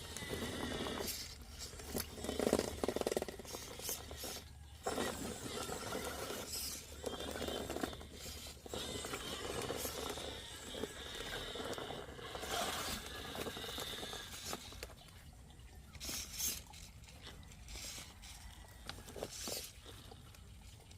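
RC rock crawler working over forest ground: irregular scraping and rustling, with louder bursts about 2.5 s in and again around 12 to 13 s.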